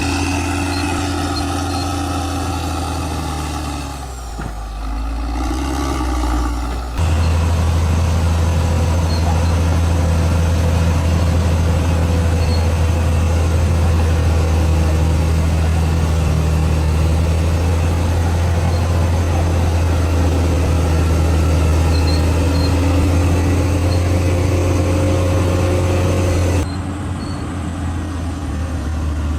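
Large bulldozer's diesel engine running as a steady, heavy drone. The sound jumps abruptly louder about seven seconds in and drops back near the end.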